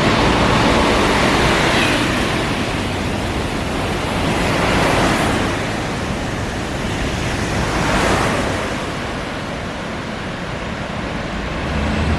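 A train passing through the station at speed: a loud, even rushing of air and wheels that swells and eases several times.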